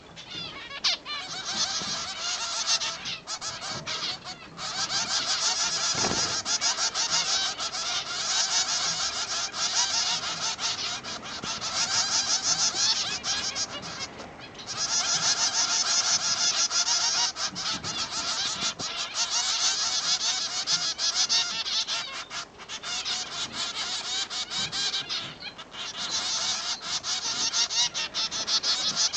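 Zebra finches calling: a continuous rapid chatter of nasal, honking calls, broken by a few short pauses.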